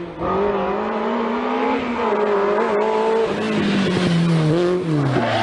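Rally car engine running hard at high revs, then the revs drop in several steps over the last couple of seconds as the car slows.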